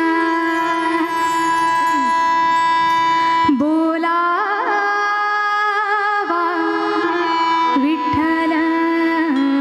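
A woman singing a Marathi devotional abhang in Indian classical style over instrumental accompaniment. She holds long notes, with quick sliding ornaments about three and a half, six and eight seconds in.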